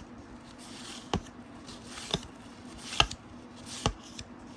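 Basketball trading cards being flipped through one at a time, each card tapping onto the stack with a sharp click about once a second.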